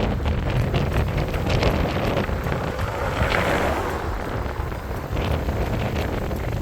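Wind buffeting the microphone during a bicycle ride, a loud, uneven low rumble with a rushing hiss above it.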